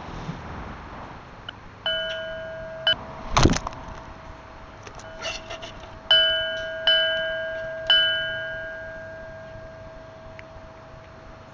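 A small metal bell rung four times, each ring the same clear pitch. The first is damped short after about a second, and a sharp knock and a few light clicks follow. The last three rings come in quick succession about a second apart and fade out slowly.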